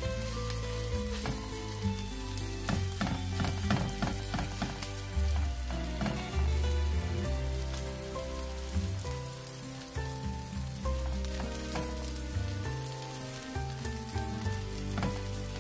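Korean chive pancake batter sizzling as it fries in hot oil in a frying pan. Within the first five seconds there is a run of sharp clicks and scrapes as it is spread out in the pan.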